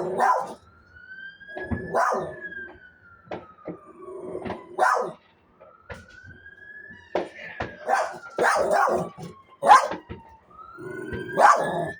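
A siren wailing in slow rising-and-falling sweeps, three cycles about five seconds apart, while a dog barks repeatedly in short sharp barks.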